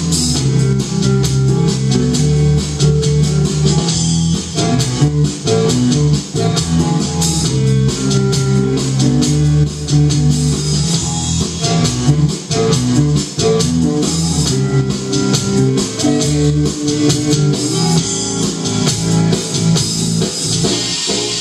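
A rock band playing an instrumental passage on guitar, bass guitar and drum kit with a steady beat.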